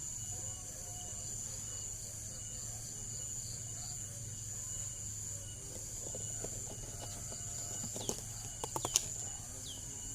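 Steady high-pitched chirring of crickets or other insects over a low hum. A few sharp clicks and short falling chirps come about eight to ten seconds in.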